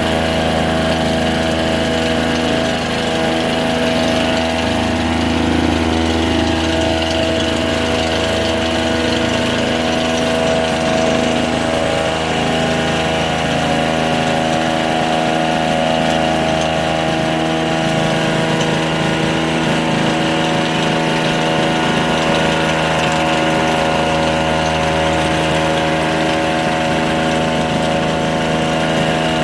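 Small two-stroke engine running steadily at a constant speed, with no change in pitch.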